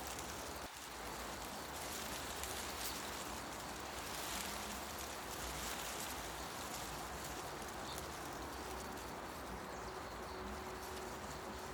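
Wind stirring tree leaves in a steady rustling hiss, with a few faint bird calls.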